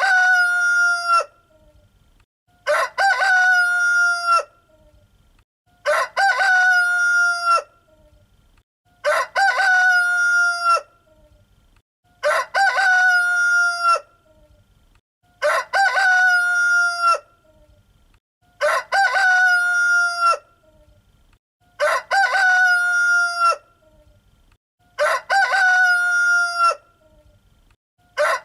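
Rooster crowing cock-a-doodle-doo over and over, the same crow about every three seconds, with quiet gaps between.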